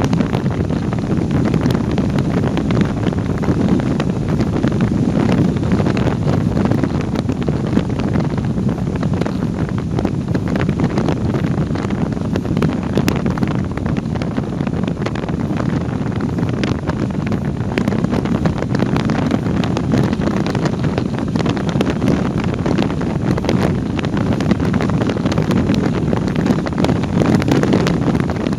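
Steady wind rush buffeting the camera microphone on a moving motorcycle, strongest in the low range.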